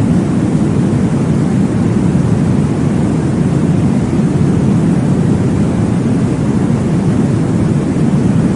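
Steady, deep whooshing noise from a baby sleep noise track, even and unbroken with no clear beat.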